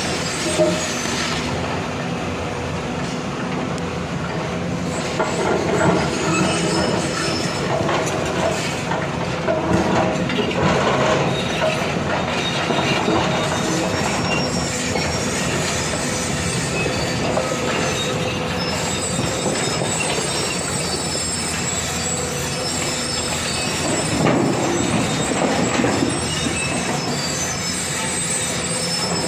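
Heavy machinery at work as an excavator loads a dump truck: diesel engines running steadily with metallic squealing, swelling a few times.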